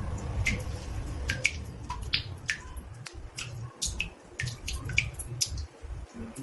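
Water drops falling into a bathtub, two or three a second at irregular intervals, each a short plink that drops quickly in pitch, over a low steady rumble.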